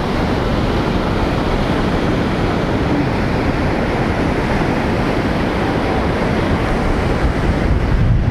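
Rough surf breaking on a sandy beach, under heavy wind buffeting the microphone.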